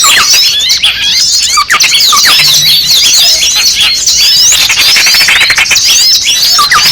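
A dense, loud chorus of many small birds chirping and squeaking at once: quick rising and falling notes overlapping without a break. It is an agitated small-bird recording used as a lure call to draw other small birds in.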